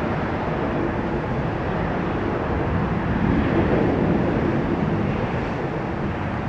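Jet airliner engine noise, a steady rush that swells slightly in the middle and eases toward the end.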